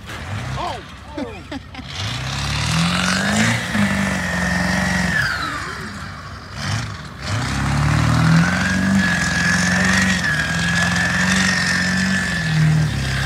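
Car engine revved up and held at high revs twice, the second time for several seconds, with a high-pitched whine that rises and holds along with it.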